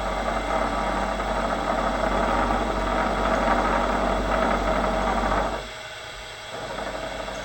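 Bridgeport milling machine cutting mild steel with a carbide end mill: a steady cutting noise over the machine's low hum. About five and a half seconds in the noise drops abruptly, leaving the machine running more quietly.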